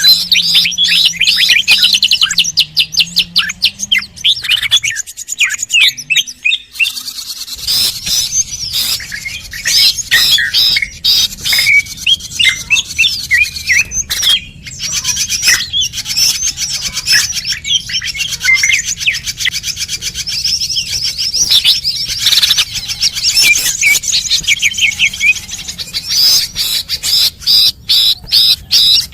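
Dense, continuous twittering of small birds: rapid high chirps and short sweeping calls overlapping without pause, from a bird-lure recording.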